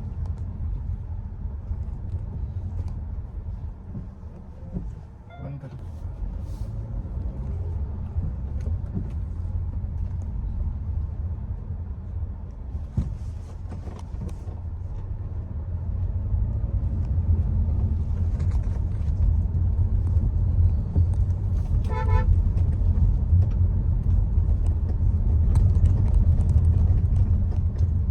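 Steady low road and engine rumble of a Hyundai Creta driving, growing louder about halfway through. A brief car horn toot sounds once near the start and once more, more clearly, later on.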